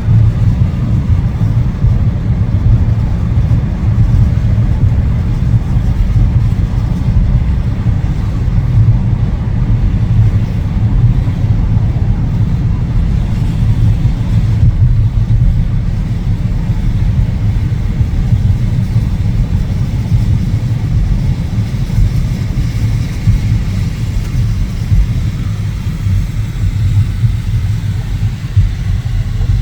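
A car being driven, with a loud, steady low rumble of road and engine noise throughout.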